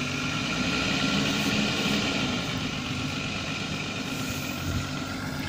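Nissan Patrol 4x4's engine running steadily.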